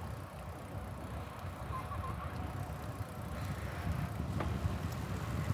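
Wind buffeting the microphone and tyre noise on the road while riding a bicycle, a steady low rumble, with a faint click about four and a half seconds in.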